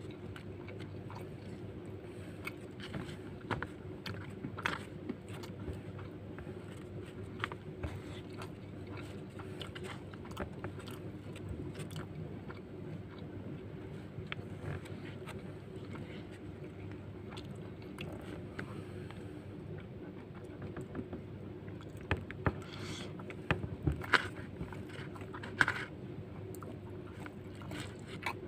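Close-up chewing and mouth sounds of a person eating nasi lemak with chili-fried beef lung by hand: short wet clicks and smacks, with a few louder ones near the end, over a steady low hum.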